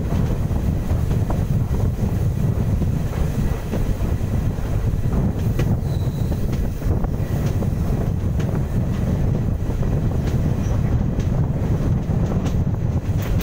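Passenger train running along the track, heard from outside a moving coach: a steady, loud low rumble of wheels on rails mixed with rushing wind on the microphone, with a few faint clicks.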